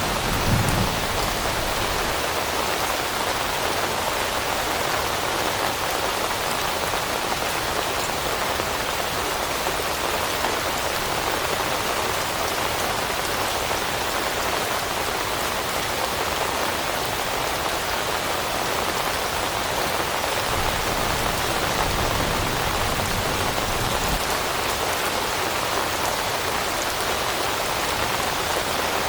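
Steady rain falling on leaves: an even, unbroken patter of drops at a constant level, with a brief low thud about half a second in.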